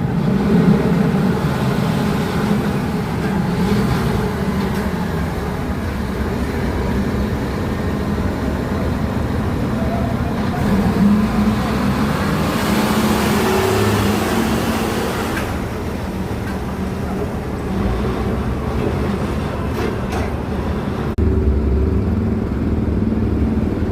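Diesel engines of heavy dump trucks running and moving off a ship, a steady drone throughout. About halfway through, a hiss of air lasts roughly three seconds, and near the end the low engine sound gets louder.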